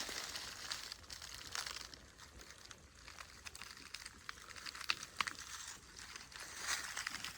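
Rustling and crackling with scattered sharp clicks, like something moving through or handling dry, crinkly material.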